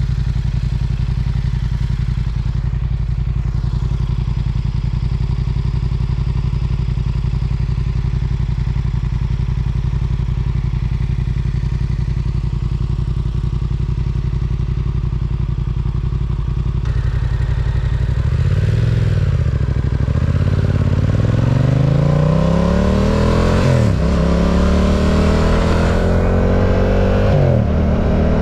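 Yamaha R7's 689 cc parallel-twin engine running at a steady note, then, a little past halfway, accelerating hard with rising pitch and two quick drops in pitch as it shifts up through the gears.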